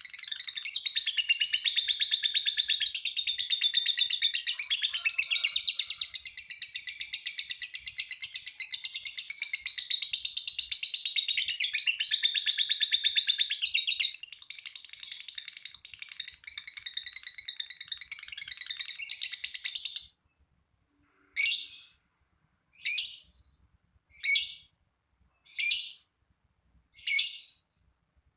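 Lovebird 'ngekek': a long, rapid, high chattering trill that stops abruptly about twenty seconds in, followed by five short separate calls about a second and a half apart.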